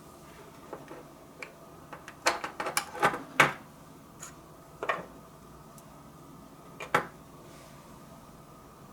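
A series of sharp clicks and knocks, several bunched together a couple of seconds in and single ones after, over a steady hum.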